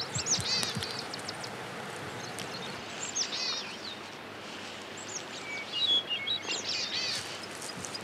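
Small songbirds chirping in short, quick high calls, in clusters near the start, around three seconds in and again around six to seven seconds in, over a steady outdoor hiss.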